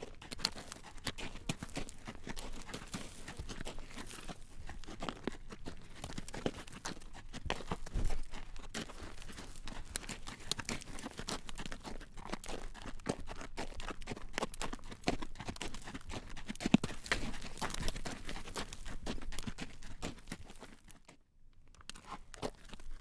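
A horse's hooves clacking on a road as it walks drawing a carriage: a steady run of sharp clops that briefly falls quiet near the end.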